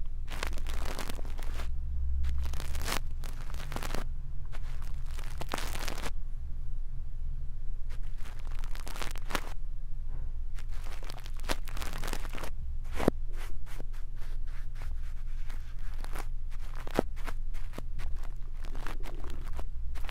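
Close-up scratching and crackling of a brush being worked on an ear, in irregular strokes with short pauses, over a steady low hum.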